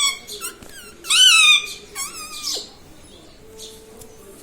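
Indian ringneck parrot calling: a loud, wavering call about a second in, followed by a couple of shorter calls, then quiet after about three seconds.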